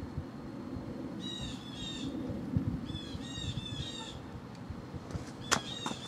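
A bird calling outdoors: two bursts of quickly repeated notes, each note sliding down in pitch, and a third burst starting near the end, over a steady low rumble. A sharp click sounds about five and a half seconds in.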